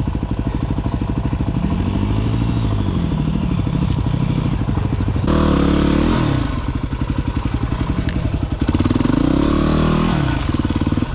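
Dirt bike engine revving up and down under the rider's throttle, its pitch rising and falling several times, with a louder, harder burst of throttle about five seconds in.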